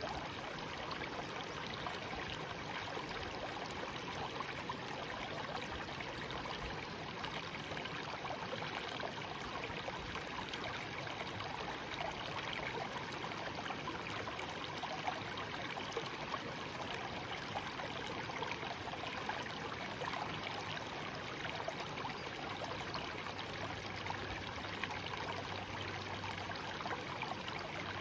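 A shallow stream babbling and trickling over stones, a steady rush of flowing water with small splashes throughout.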